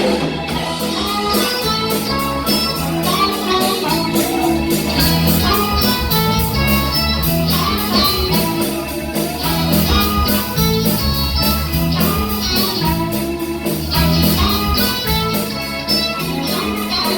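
Live band playing an instrumental passage led by guitar, with a steady beat.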